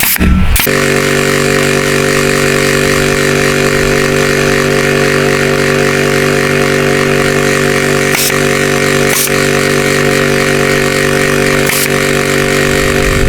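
A small engine running steadily at an even speed, with a few brief sharp clicks about eight, nine and twelve seconds in.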